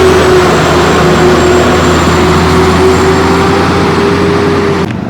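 Loud, steady engine and road noise of a moving vehicle, with a steady whine running through it, cutting off abruptly near the end.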